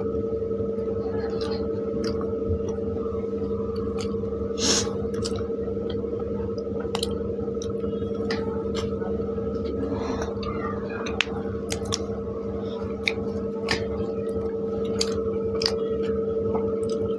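Close-up eating sounds: chewing, mouth smacks and soft squelches as bread dipped in pav bhaji is eaten by hand, with scattered sharp clicks, the loudest about five seconds in. A steady hum runs underneath.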